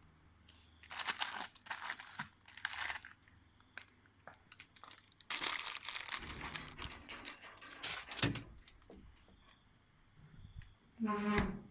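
Crinkling and rustling in irregular bursts, twice for a few seconds, with a short pitched sound near the end.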